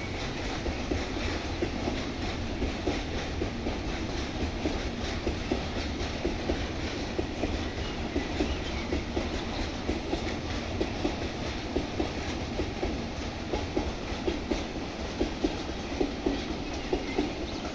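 Freight train rolling past, its wagons rumbling with a continuous clickety-clack of wheels over the rail joints.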